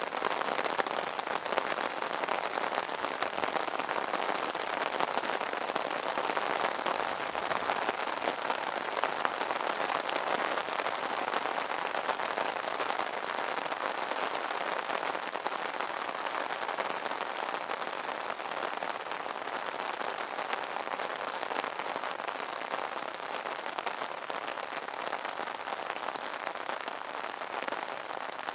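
Steady rain drumming on an umbrella's canopy: a dense, even patter of drops with no pauses.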